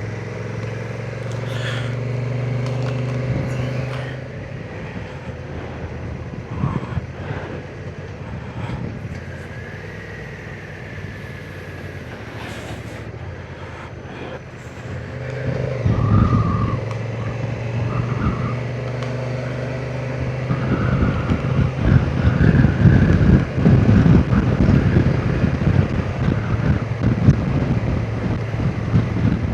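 Honda NT1100's parallel-twin engine running as the motorcycle is ridden, quieter for a stretch and then louder from about halfway, with wind rumbling on the microphone.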